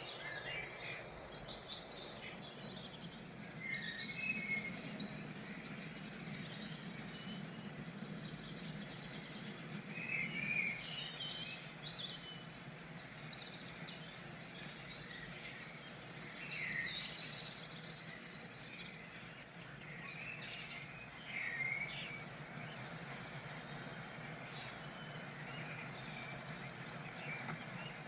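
Several small songbirds chirping and calling, with many short overlapping notes scattered throughout, over steady background noise.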